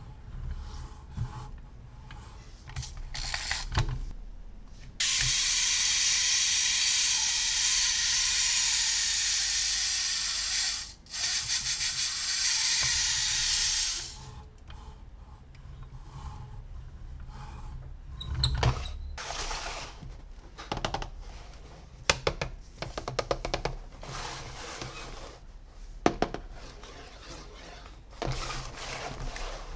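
Hands handling toy packaging and plastic parts. A loud, steady hiss runs for about nine seconds, broken once, and scattered clicks and rattles come before and after it.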